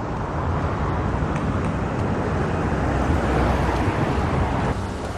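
Road traffic passing close by: tyre and engine noise from cars on the road swells and then drops away just before the end.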